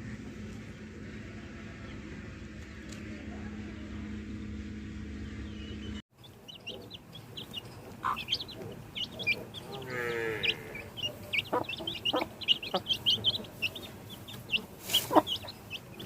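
A steady low hum for about six seconds that cuts off abruptly. Then aseel chickens cluck and call in many short, high-pitched notes, with one longer drawn-out call about ten seconds in.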